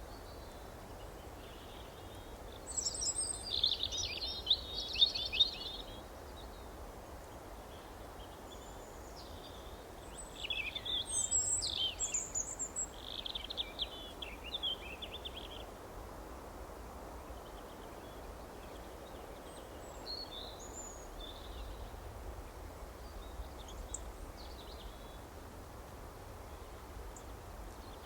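Birds singing in two busy bursts of chirps and trills, the first about three seconds in and the second about ten seconds in, with a few faint calls after. A steady low background hiss runs underneath.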